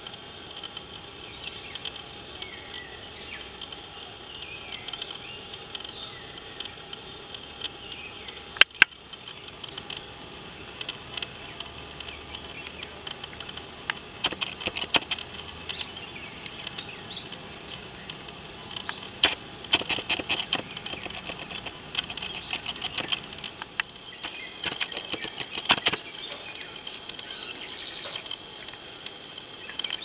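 Rural outdoor ambience: a bird repeating a short, rising chirp about once every second or so, over a steady high insect drone. Two sharp clicks come about nine seconds in, and bursts of quick ticking come later.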